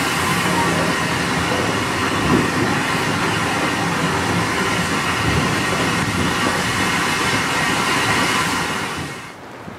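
Running noise of a moving train heard from a carriage window: a steady rumble and hiss of wheels on rail, cutting off suddenly near the end.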